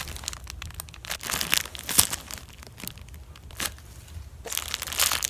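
Irregular crinkling and rustling handling noise with scattered sharp ticks, as a squishy toy is handled close to the microphone, busiest near the end.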